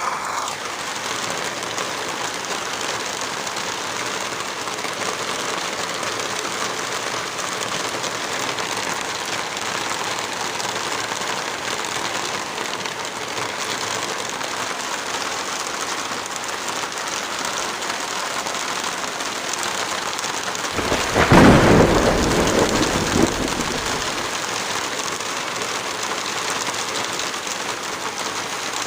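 Heavy rain falling steadily, with one clap of thunder about two-thirds of the way through that rumbles low for a few seconds before dying away.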